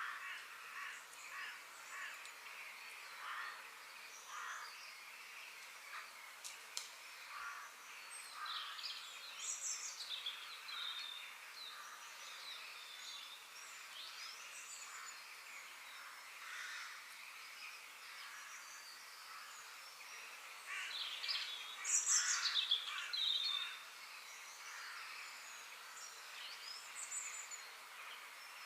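Several birds chirping and calling over a faint steady hiss, with a run of short repeated calls at first and a louder flurry of chirping about three-quarters of the way through.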